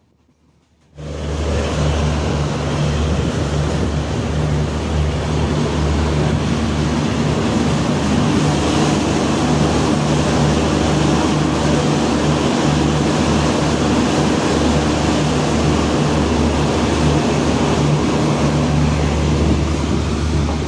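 Passenger train running at speed, heard from a coach's open doorway: a steady, loud rush of wind and wheel-on-rail noise with a low, steady hum. It starts abruptly about a second in, after near silence.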